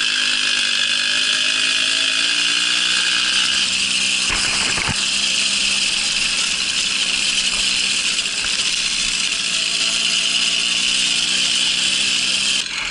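Babetta moped's 50 cc two-stroke single-cylinder engine running under way, settling to a fairly steady pitch after pulling away, with a few knocks about four to five seconds in. The engine note drops back near the end.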